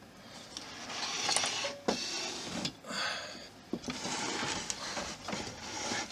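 Rustling and scraping as plastic model parts and packaging are handled and slid on a work surface, in several stretches of about a second each, with a few sharp clicks.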